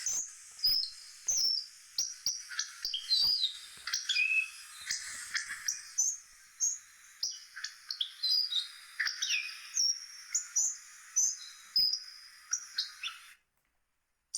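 Hawfinch chirping: a busy run of short, high chirps and whistled notes with sharp clicks mixed in. It cuts off suddenly about a second before the end.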